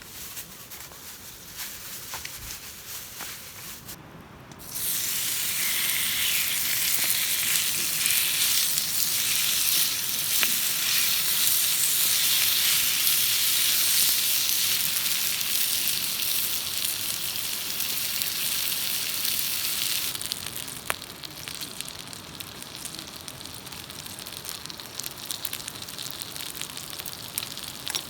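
Food sizzling in a hot pan. A sudden loud sizzle starts about five seconds in and holds steady, then drops to a softer, crackling sizzle about twenty seconds in, with faint crackling before it starts.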